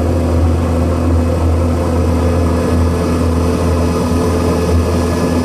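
A motor vehicle's engine running steadily, a loud, even, deep hum with a constant pitch.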